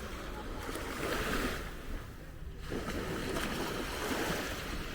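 Waves breaking and washing up on a sandy beach: a continuous rush of surf that swells and eases, with a brief lull about two seconds in.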